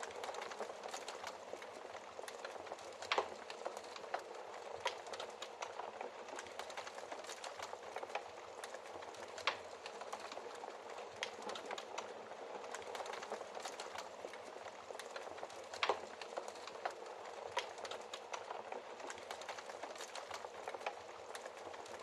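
Fireplace fire crackling steadily, with many small ticks and a few louder pops scattered through.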